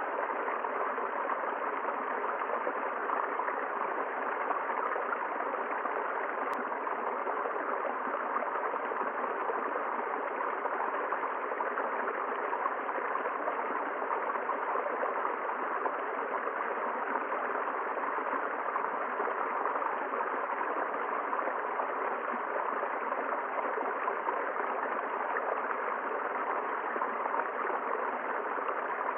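River water flowing over stones: a steady, even rush with no change in level.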